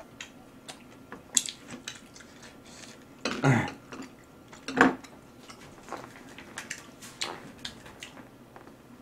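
Close-miked chewing of grilled beef: wet mouth clicks and smacks throughout, with two louder mouth sounds around the middle, and chopsticks tapping on the griddle and dishes.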